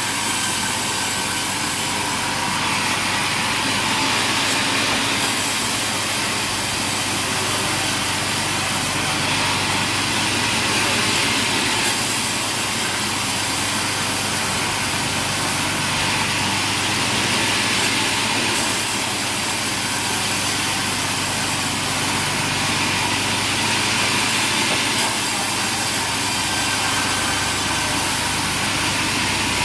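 Sawmill machinery running steadily. The noise shifts a little in character every few seconds.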